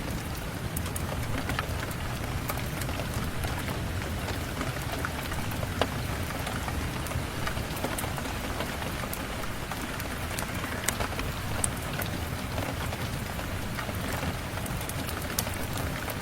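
Steady rain falling, with many small sharp ticks scattered through it.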